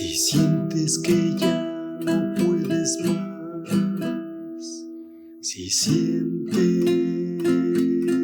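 Instrumental background music of strummed acoustic guitar chords, briefly letting up about two-thirds of the way through before the strumming picks up again.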